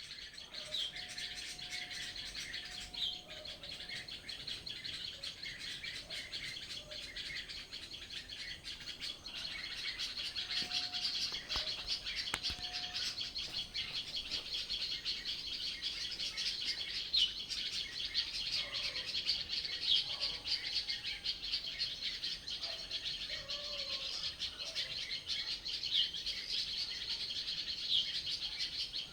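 Many birds chirping and singing at once in a dense, continuous chorus, with a few sharper single calls standing out above it. The chorus grows louder about ten seconds in.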